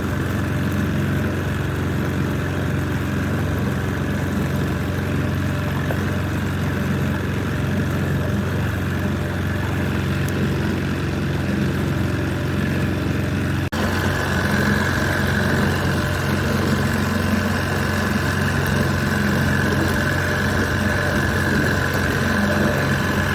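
An engine running steadily, with a brief break about two-thirds of the way through, after which it carries on at a slightly different pitch.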